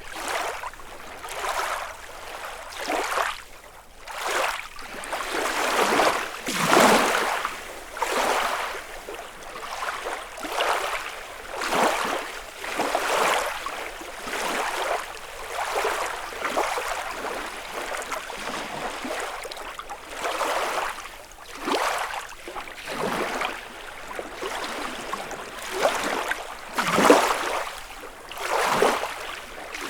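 Small lake waves lapping on the shore, each wash swelling and fading every second or two, with a couple of larger ones breaking louder.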